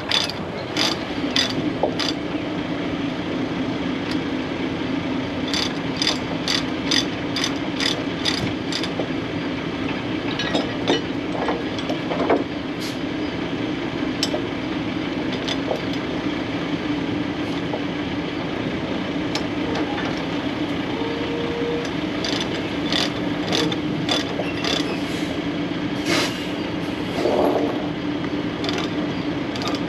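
A heavy diesel engine running steadily, with bursts of sharp metallic clicks and clanks over it, some in quick runs of several a second.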